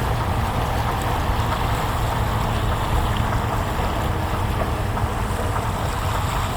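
Steady wind noise buffeting the microphone: a continuous low rumble with a hiss above it.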